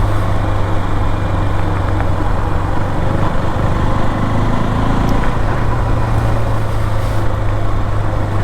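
KTM motorcycle engine running while riding, a steady low drone under dense wind and road noise, with a brief change in engine note about four seconds in.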